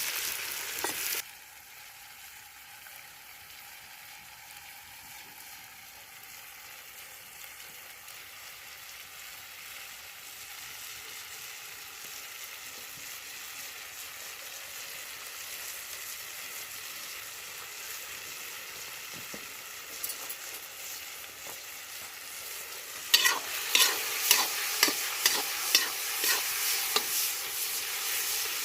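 Food sizzling and frying in a kazan, a steady hiss that slowly grows louder. About five seconds before the end, a utensil starts scraping and knocking against the pot as the food is stirred.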